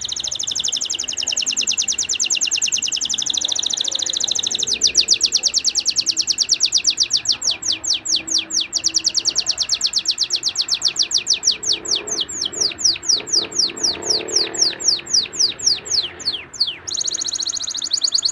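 Canary singing: a long, fast rolling trill of high repeated notes that gradually slows into separate falling notes about sixteen seconds in, then a fast trill starts again near the end.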